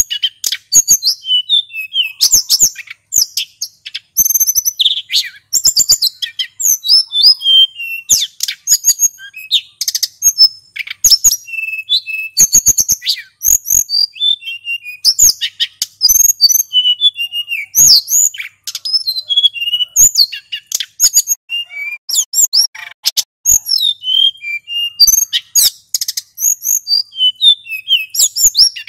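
Male sulingan gunung (mountain flycatcher) singing continuously: a rapid jumble of high chirps, trills and short whistled notes with hardly a pause.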